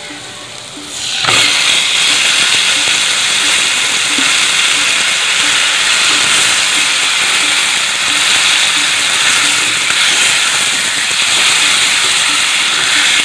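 Garlic paste sizzling in hot oil. About a second in, marinated raw chicken goes into the pan and the frying jumps to a loud, steady sizzle.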